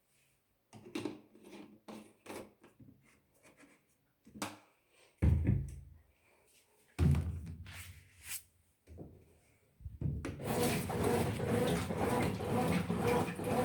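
Scattered knocks and rubbing from handling a washing machine, with two heavier low thumps about five and seven seconds in. From about ten seconds in a steady noisy running sound takes over.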